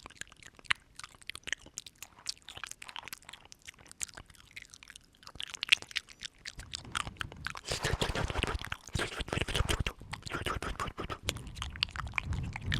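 Close-up ASMR mouth sounds right at the microphone: scattered wet clicks and smacks, turning denser and louder from about halfway through.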